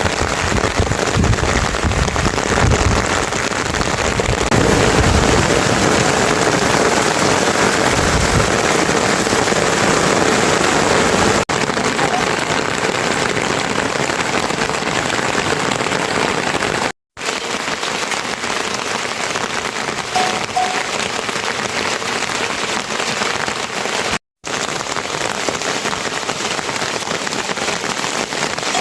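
Heavy rain falling steadily, a dense even hiss of drops on surfaces, with a low rumble under it for the first eight seconds or so. The sound cuts out completely for a moment twice, about two-thirds of the way in and again later.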